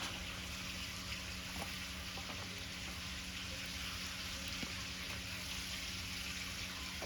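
Pancake batter sizzling in a pan over a wood fire: a steady hiss with a few faint pops.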